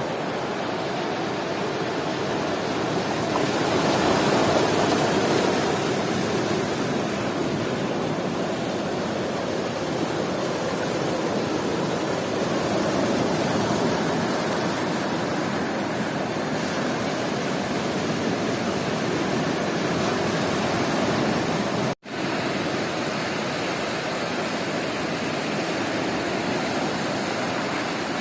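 Sea surf washing onto a beach: a steady rush of breaking waves that swells about four seconds in. The sound cuts out for an instant about 22 seconds in.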